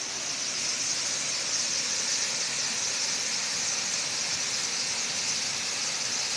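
Waterfall pouring with a strong flow: a steady, even hissing rush of falling water.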